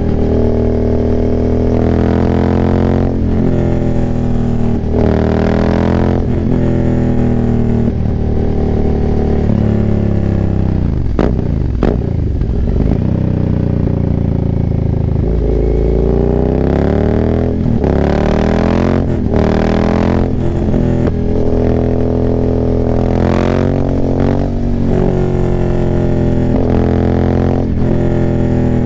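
2019 Aprilia Dorsoduro 900's V-twin running through a full Arrow exhaust with the cat and dB killers removed, revving up and down repeatedly as the bike accelerates and rolls off. There are a couple of sharp cracks about halfway through.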